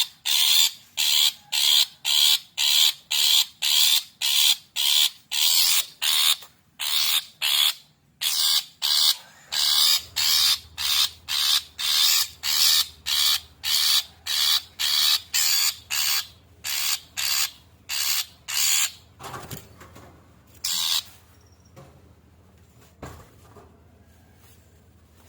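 Long-tailed shrike (cendet) giving agitated, harsh rasping calls in a fast steady series, about two a second, which thins to a few isolated calls near the end.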